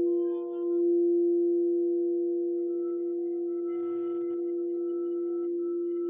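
Singing bowl ringing with a steady low tone and a few higher overtones, swelling about a second in and then slowly fading.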